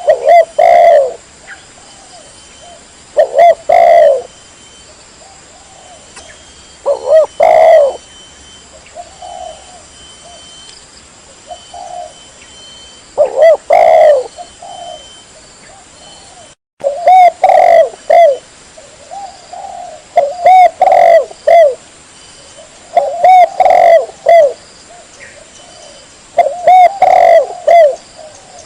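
Spotted dove (tekukur) cooing loudly in a series of phrases, each a cluster of several coos, separated by pauses. It is a recorded lure call used to draw in wild spotted doves, with a brief cut in the sound about two-thirds of the way through.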